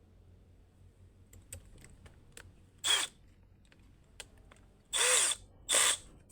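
Power drill run in three short bursts, each spinning down with a falling whine at its end, with small clicks of handling before them.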